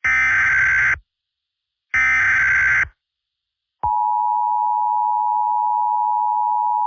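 Emergency Alert System tones: two one-second bursts of the SAME header's digital data code, about a second apart. Just under four seconds in, the steady two-tone EAS attention signal (853 and 960 Hz) begins and holds.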